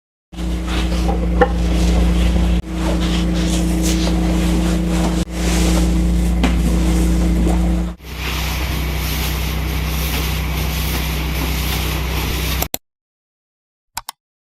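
Vacuum cleaner running with a steady low hum, heard in several short back-to-back clips. About eight seconds in the sound turns hissier, and it stops abruptly near the end.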